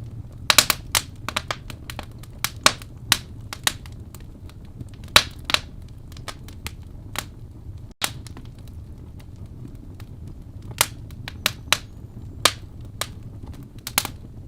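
Wood fire crackling in a fireplace: irregular sharp pops and snaps, with a cluster of them about half a second in, over a steady low hiss of burning. The sound drops out for an instant about eight seconds in.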